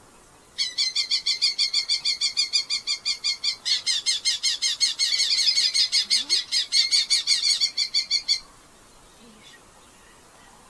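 Red-footed falcons calling in a fast, even chatter of repeated sharp notes, several a second; a second bird's series overlaps from about four seconds in, and the calling stops about eight seconds in.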